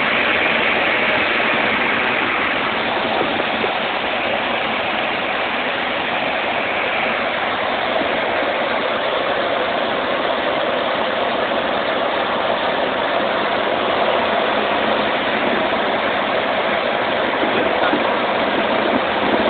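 Cessna 150 light aircraft's engine and rushing air heard from inside the cabin: a steady, loud, even noise with no clear pitch.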